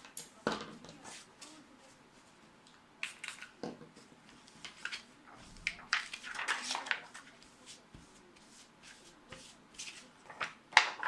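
Irregular clicks, taps and scrapes of hard parts being handled, such as an ATX power supply's metal casing, screws and components being worked on, with a denser stretch of scraping about six seconds in and a sharp knock near the end.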